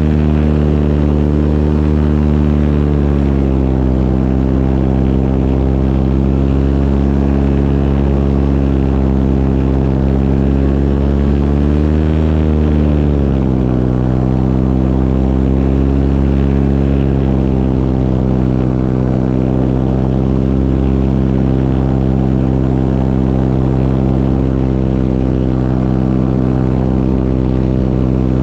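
Propeller engine running steadily at high power. Its pitch drops a little about three seconds in, then rises and falls again around twelve seconds in as the throttle changes.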